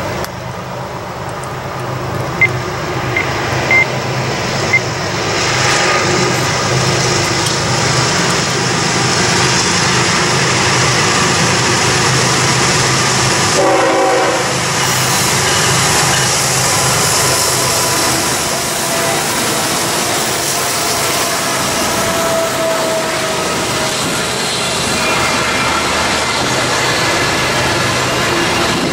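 Norfolk Southern intermodal freight train led by a GE ES44AC diesel locomotive, running loud as it comes out of a tunnel, then double-stack container cars rolling past on the rails. A short horn note sounds about halfway through.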